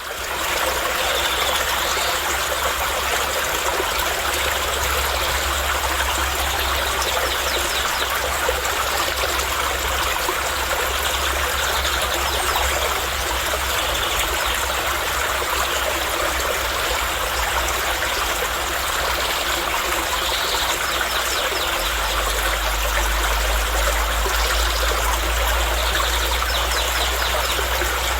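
Stream water running and trickling, a steady, even rush of flowing water.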